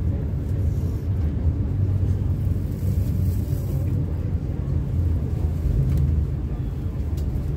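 MTR Kwun Tong Line C-Train running between stations, heard from inside the car: a steady low rumble of wheels on rail and running gear.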